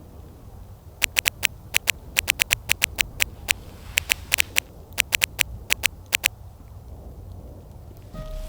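Camera shutter firing in rapid bursts, sharp clicks in quick clusters of three to five that continue for about five seconds.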